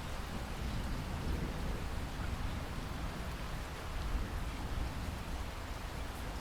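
Steady rainfall, an even hiss with a deep rumble underneath and no distinct single drops standing out.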